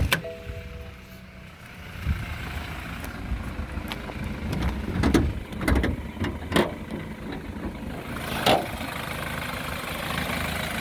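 BMW X3 xDrive28i's 2.0-litre four-cylinder turbo engine idling steadily, with no abnormal noises. Over it come a series of sharp clicks and knocks as the hood latch is released and the hood is raised.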